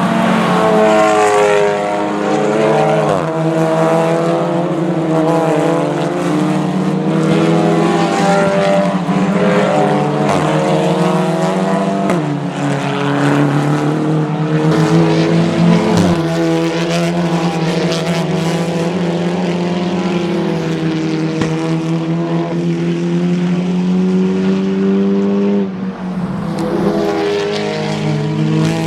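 Touring-car racing engines running hard on circuit, their pitch repeatedly climbing and dropping as the cars accelerate, shift and brake.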